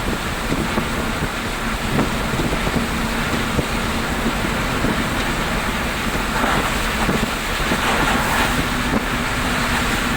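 Steady road and wind noise inside a moving car, with a low engine hum underneath.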